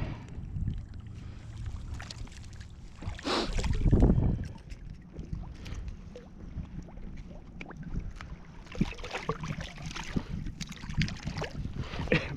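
Wind buffeting the microphone over water sloshing around an angler wading, with a louder rush of noise about three to four seconds in.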